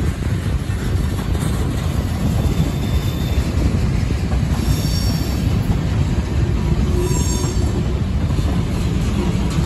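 Freight cars rolling past close by, a steady rumble of steel wheels on rail, with faint high-pitched wheel squeal a couple of times in the middle.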